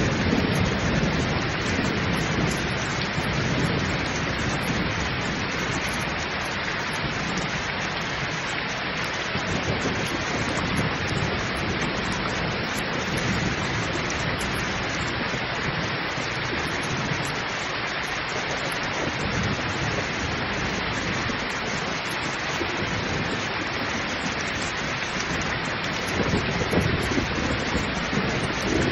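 Heavy rain pouring steadily, with a low rolling rumble of thunder at the start and again near the end.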